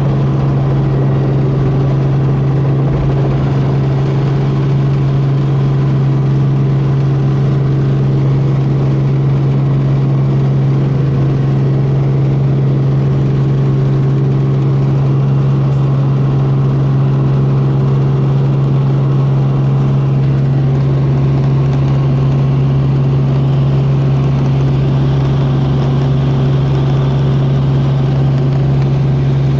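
Helicopter engine and rotor running with a loud, steady, even drone, heard from aboard the helicopter.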